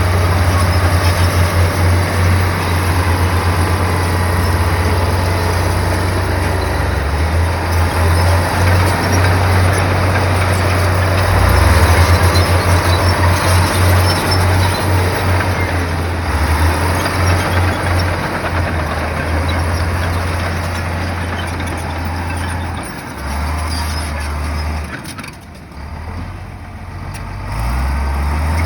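Komatsu bulldozer's diesel engine running under load, its low throb pulsing and shifting as the load changes, over a steady wash of mechanical noise. The sound drops off briefly about three-quarters of the way through, then picks up again.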